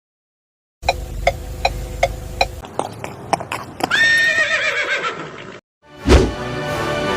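Horse: a few hoof clip-clops about two or three a second, then a neigh with a wavering, falling pitch. Near the end a thud, and music begins.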